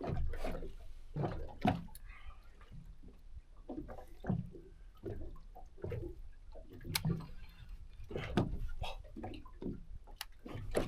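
Water slapping and sloshing against a small boat's hull, with irregular knocks and bumps, over a low rumble.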